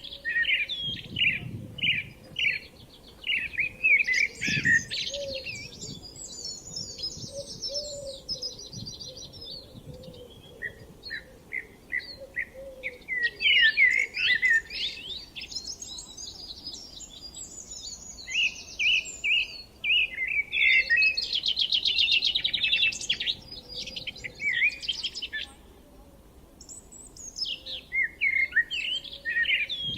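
Several songbirds singing and calling at once: quick repeated chirps overlapping with fast buzzy trills, the longest of which comes about two-thirds of the way through.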